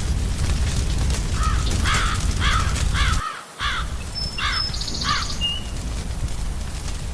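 A crow cawing about seven times in a quick run, roughly two caws a second, over a steady low rumbling background. A couple of brief high bird chirps come in near the end of the run, and the background cuts out for a moment about three seconds in.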